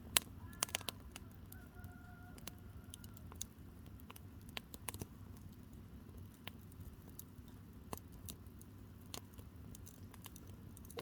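Firewood burning in a campfire, crackling with irregular sharp pops over a low, steady rush of the fire.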